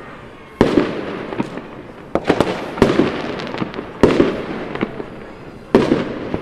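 Aerial fireworks bursting overhead: about six loud bangs, three of them close together in the middle, each trailing off in a rolling echo with crackle.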